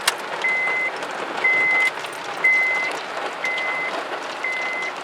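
Car reversing alarm beeping a single high tone about once a second, five times, as the car backs out, over a steady hiss of rain.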